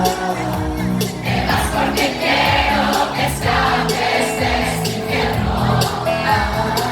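Live pop band playing a ballad with singing, many voices together like a crowd singing along, recorded at a concert.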